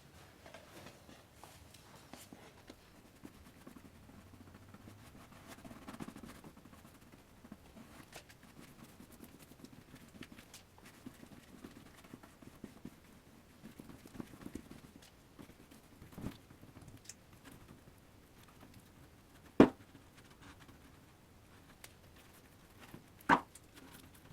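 Light handling noise with scattered small clicks and taps, then two sharp knocks about three and a half seconds apart near the end.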